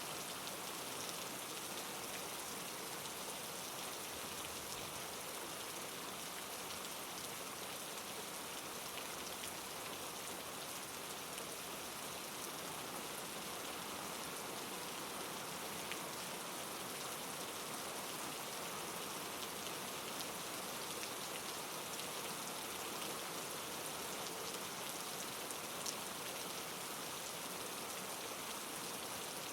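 Steady rain falling, an even hiss with scattered faint drop ticks on a surface.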